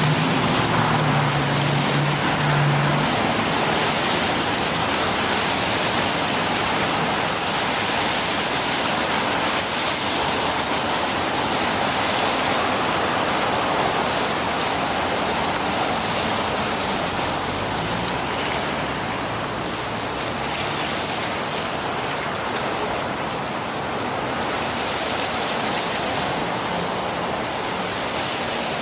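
Steady rushing noise of a bicycle ride on wet roads in the rain. A motor vehicle's low hum is mixed in for the first few seconds.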